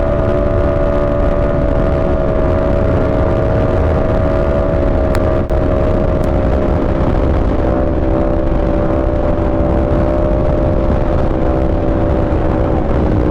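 Sport motorcycle engine running at a steady cruise, its note holding and drifting slowly lower, over a low rumble. It dips briefly about five and a half seconds in.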